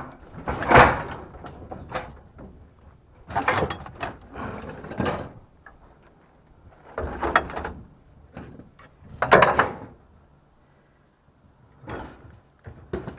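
Clattering and scraping of a heavy scrap item being lifted and shoved into place, in about five loud bursts separated by short pauses.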